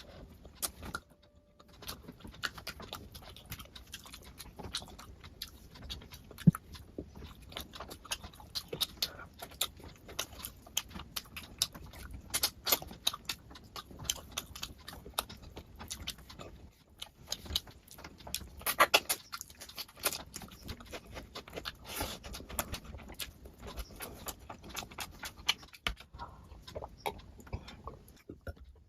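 Close-up mouth sounds of a person eating rice and curry: wet chewing and lip smacking, a quick irregular run of many small clicks and smacks, busiest about halfway through and again a few seconds later.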